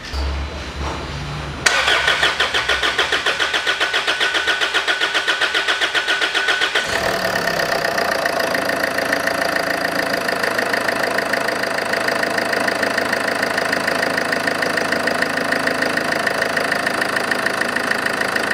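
A 2011 Range Rover Evoque's 2.2-litre four-cylinder diesel is cranked on the starter for about five seconds with a rhythmic chugging. It catches about seven seconds in and settles into a steady idle. The long crank comes from the fuel system having to prime after the injectors were removed and refitted.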